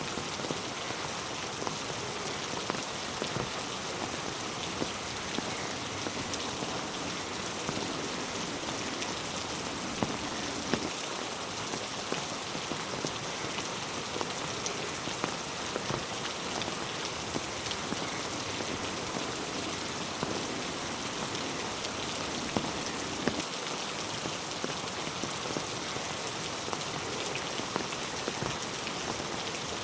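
Steady rain falling, a continuous hiss with many single drops ticking sharply over it.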